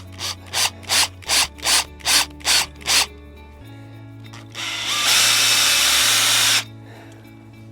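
Power drill driving a screw into wood: about eight short bursts in quick succession, then one continuous run of about two seconds.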